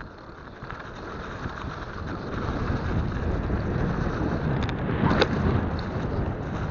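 Wind buffeting a helmet or bike action camera's microphone, mixed with the rumble of a mountain bike rolling fast over a snowy trail. It grows louder over the first few seconds as the bike picks up speed, with a sharp jolt about five seconds in.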